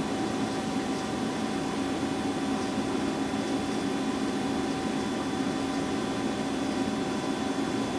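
Lucas 542B-84 CNC horizontal boring mill running, a steady hum with several held tones that do not change.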